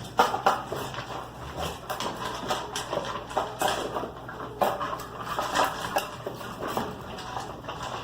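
Dog food bowls clinking and clattering irregularly, in quick sharp knocks.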